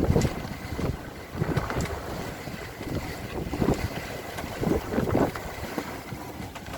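Irregular gusts of wind buffeting the microphone aboard a boat, rising and falling every second or so.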